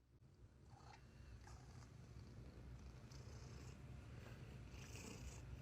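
A domestic cat purring quietly: a faint, steady low rumble that grows a little louder.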